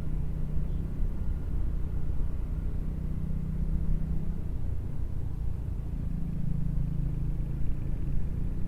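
Triumph 400 single-cylinder motorcycle engine running steadily while riding, with a low drone and road rumble; the engine note rises slightly about halfway through.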